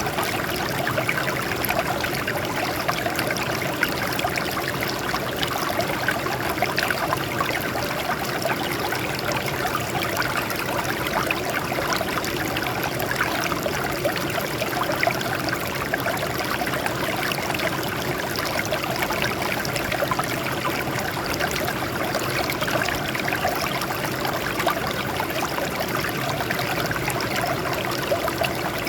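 Water flowing and trickling over rocks in a small stream, a steady splashing rush.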